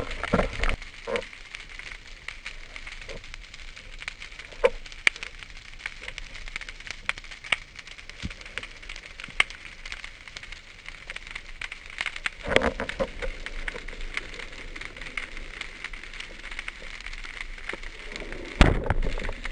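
Underwater crackling: scattered sharp clicks over a faint steady hiss, with two louder rushing noises, one about twelve seconds in and one near the end.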